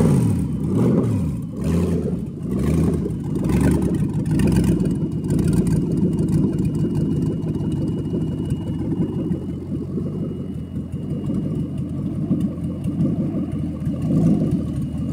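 2007 Corvette 6.0 L LS2 pushrod V8 running on an engine stand: revs rise and fall a few times in the first seconds, then it idles steadily, and the revs rise again near the end.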